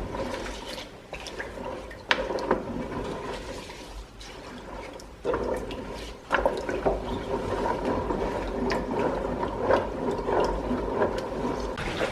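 Water running and splashing, with scattered small knocks and clinks.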